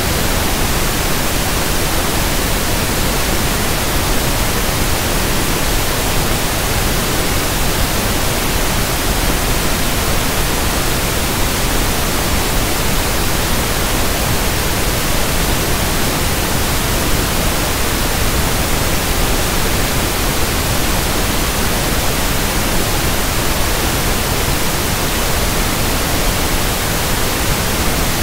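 Synthetic 1/f pink noise: a steady, even hiss across the whole range, with no change in level.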